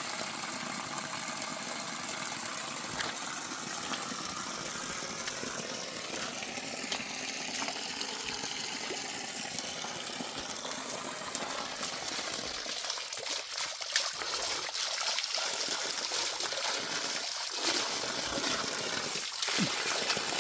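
Running water, a steady flow, with scattered clicks and knocks in the second half.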